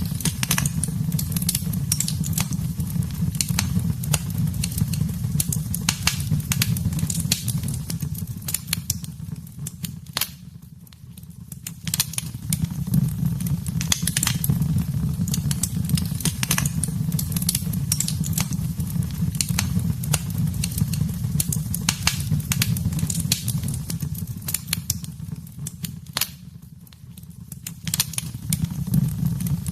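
Wood fire in a fireplace crackling, with many sharp pops and snaps over a low steady roar. Twice the fire sound dips quieter for a second or two, about a third of the way in and again near the end, then comes back up.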